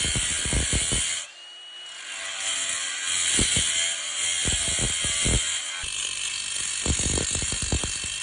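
Angle grinder with an abrasive disc working metal: a steady hiss with irregular knocks and clicks, cutting out briefly about a second in and building back up.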